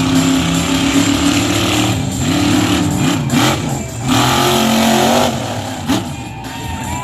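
Monster truck engine revving hard, its pitch swinging up and down again and again, easing off a little about five seconds in.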